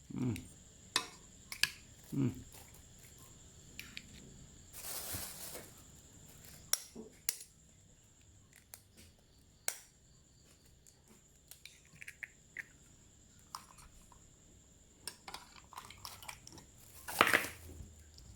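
Kitchen utensils and dishes clinking and knocking in scattered short strikes, with a brief noisy swish about five seconds in and a louder clatter near the end.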